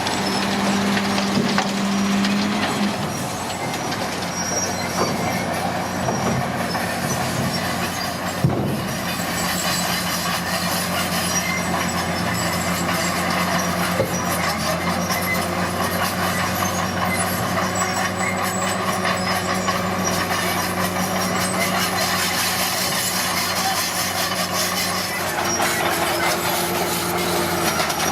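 Komatsu D41P crawler bulldozer's diesel engine running steadily, with constant rattling and clanking from the machine and a single sharp knock about eight seconds in.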